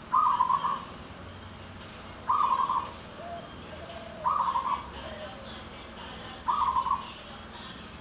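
Zebra dove (perkutut) cooing: four short, stuttering coo phrases, evenly spaced about two seconds apart.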